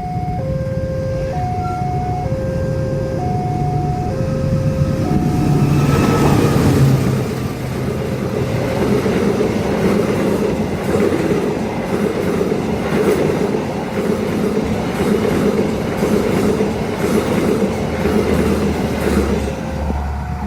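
Level-crossing warning alarm sounding two alternating tones, then from about six seconds a long train passes at speed, its wheels clattering over the rail joints and drowning the alarm. The two-tone alarm is heard again near the end as the train clears.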